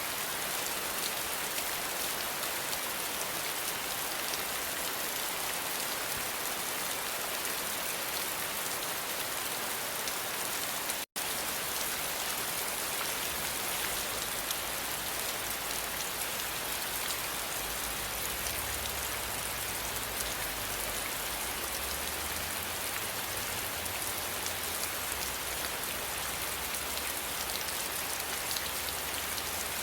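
Steady rain falling, an even dense hiss of drops, with a low rumble underneath in the second half. The sound cuts out for a split second about eleven seconds in.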